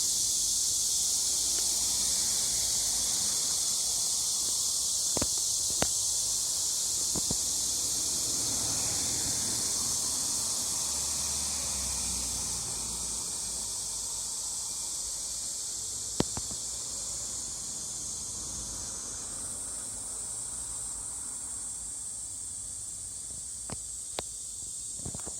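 Cicadas singing in a continuous high-pitched drone that slowly fades, with a few sharp clicks, the loudest about two-thirds of the way through.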